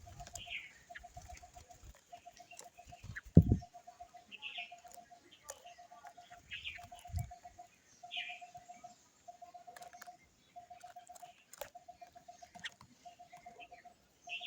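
Birds calling: a low pulsing trill repeated about once a second, with higher short down-slurred calls now and then and scattered clicks. A dull thump about three and a half seconds in is the loudest sound.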